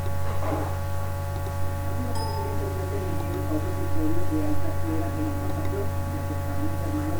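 Steady electrical hum and buzz, with faint, indistinct voices beneath it.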